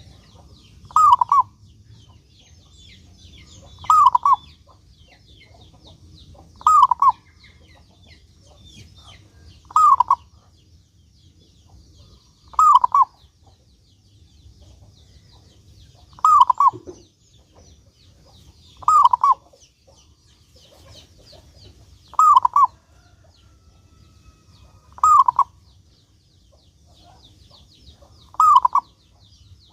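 Zebra dove (perkutut) cooing: a short phrase of two or three notes repeated about every three seconds. Faint high chirping of small birds runs underneath.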